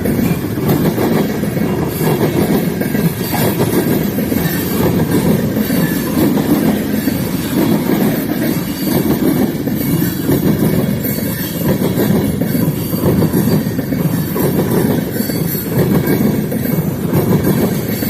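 A freight train rolling past at track side, its cars making a steady, loud rolling noise over the rails with faint clicking from the wheels.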